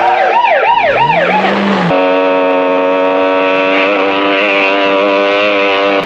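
A police siren wails, rising and falling several times. At about two seconds it gives way to a steady, buzzing motorcycle engine note held at high revs, which wavers slightly in pitch midway.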